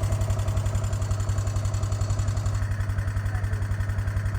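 Vehicle engine running steadily at a low idle, a deep even hum pulsing about ten times a second.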